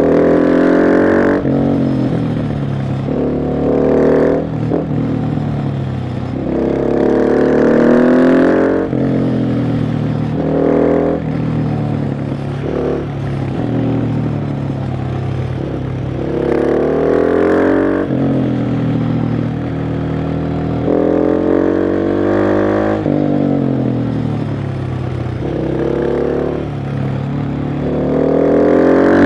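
KTM 690 SMC R's single-cylinder 690 cc engine under way, repeatedly accelerating and easing off: the pitch climbs steeply several times, then falls back as the throttle closes or the gear changes.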